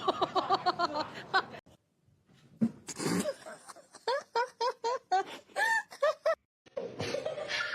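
Laughter in quick rapid pulses, broken off abruptly twice by short silent gaps.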